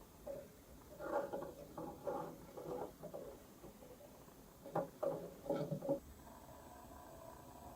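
Soft, irregular taps and rubbing noises, in two clusters, like hands working on an object. About six seconds in they stop and a faint steady hum begins.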